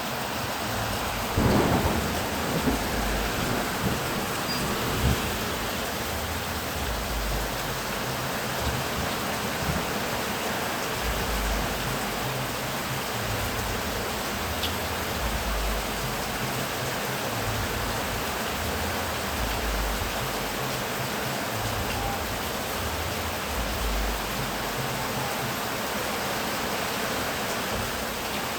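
Heavy rain falling steadily, with a sharp thunderclap about a second and a half in and low rumbles of thunder rolling on and off.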